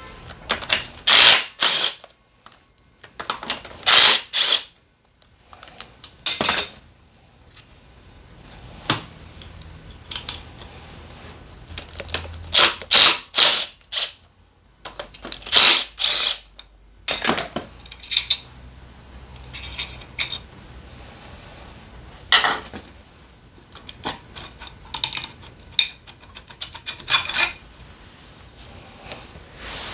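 Hand tools and metal engine parts clicking and clattering in short, irregular bursts with quiet gaps, as bolts are loosened and parts lifted off during an engine teardown.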